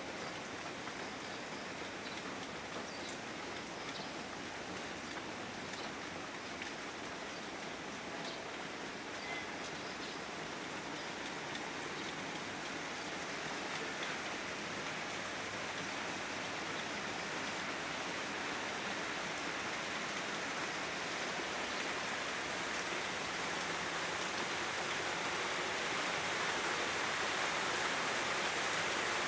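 Steady rain falling, a dense even hiss with scattered drips, growing a little louder toward the end.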